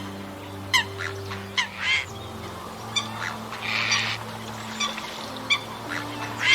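Birds calling in short, sharp pitched notes, about eight calls in a few seconds, over low steady droning tones.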